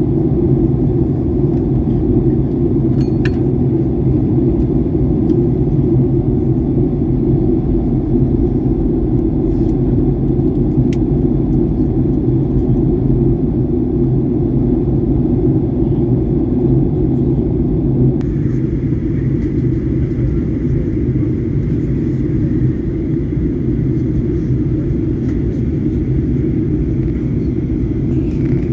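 Jet airliner cabin noise during the descent: a steady low roar of engines and airflow. About 18 seconds in, the sound changes: the middle of the roar drops away and a faint high whine comes in.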